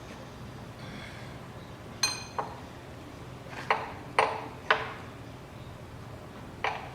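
Sharp metallic clinks and knocks, about six in a few seconds, the first one ringing: steel tools and parts striking on a stripped-down Toyota 3L diesel engine block while it is checked for play at a piston.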